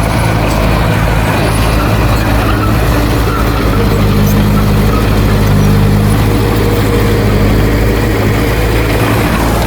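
Heavy diesel engine of earthmoving equipment running steadily. A higher engine note joins for a few seconds in the middle, then drops away.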